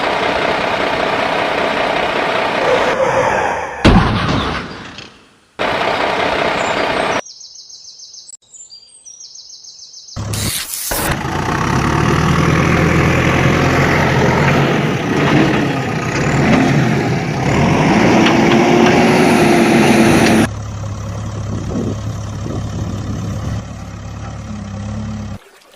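Heavy vehicle engine sounds, with truck engines running and revving, cut together in several abrupt segments, including a short quieter stretch in the middle.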